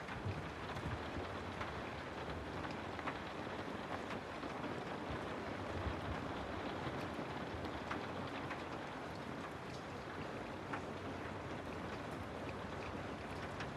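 Steady rain, an even hiss with scattered light ticks of drops.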